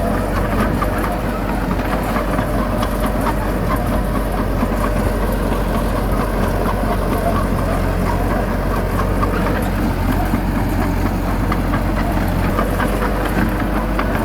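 Heavy diesel engine running steadily, a constant low hum with a faint higher tone above it.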